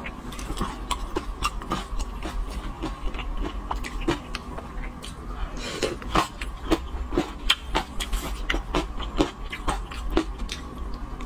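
Close-miked eating sounds through a clip-on microphone: wet chewing, lip smacks and slurps of sauce-coated raw marinated shrimp, in irregular sharp clicks several a second over a low steady hum.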